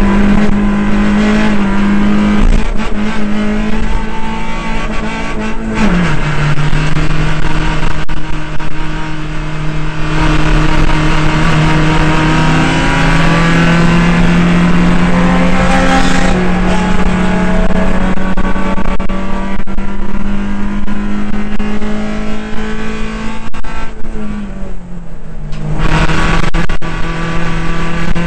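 Suzuki Cup race car's engine running hard at high revs, heard from inside the cabin. Its pitch drops sharply at a gear change about six seconds in and climbs slowly after that. Near the end it falls again and briefly gets quieter before picking back up.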